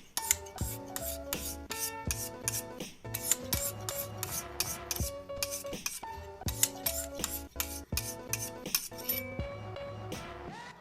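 A Lansky sharpening hone stroked again and again across a knife edge, touching up spots it missed, in short rasping strokes about three a second. Background music plays underneath.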